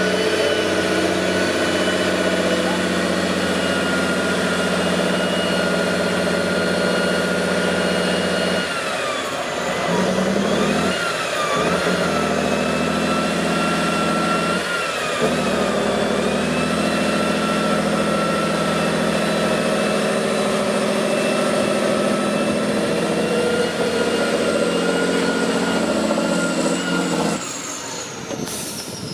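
Off-road truck engine working under load with the revs changing several times, and a high whine that rises and falls with them. The engine sound drops away near the end.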